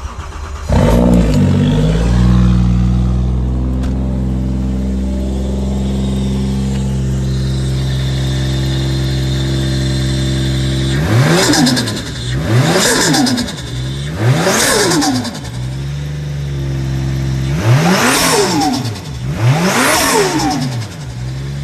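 Toyota 2JZ straight-six engine comes to life about a second in and settles to a steady idle. Later it is free-revved: three quick revs, a short idle, then two more, each rising and falling back.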